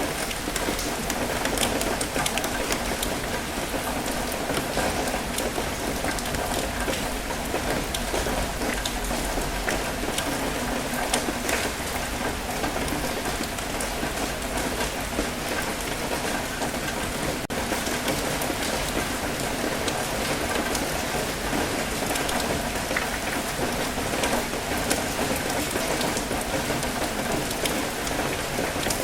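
Steady light rain with many individual drops pattering close by, over a low, even wash of gentle ocean waves on a rocky shore.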